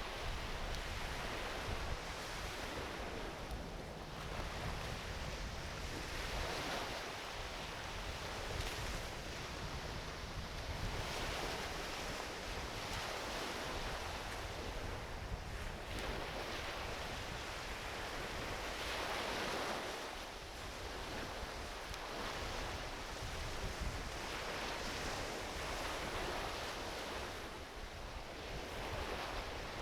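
Small ocean waves washing onto a beach, swelling and easing about every four seconds, with wind rumbling on the microphone. A few faint crackles come from a driftwood campfire.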